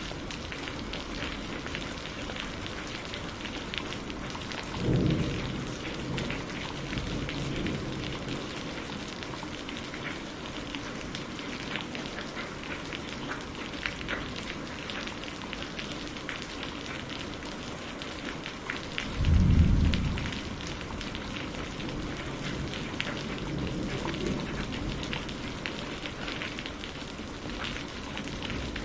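Steady rain falling, an even hiss full of fine pattering drop ticks. Two short low rumbles stand out, about five seconds in and again just before twenty seconds, the second the louder.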